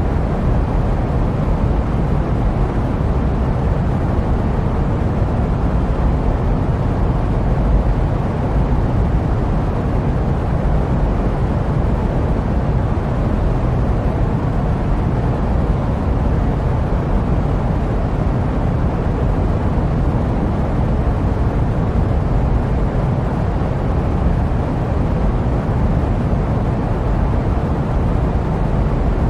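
Steady jet aircraft noise used as white noise: an even, deep hiss weighted to the low end, with no changes in level or pitch.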